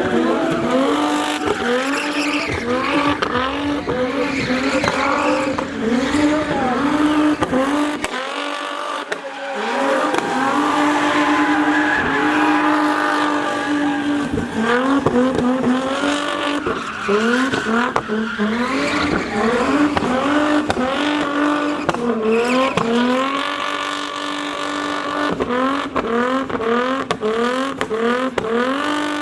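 Drift car's engine held high in the revs, its pitch dipping and climbing back again over and over, with tyres squealing as the car slides.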